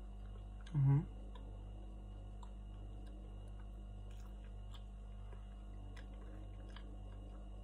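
Faint mouth sounds of a person chewing a bite of glazed donut, with a short hummed voice sound about a second in, over a steady low electrical hum.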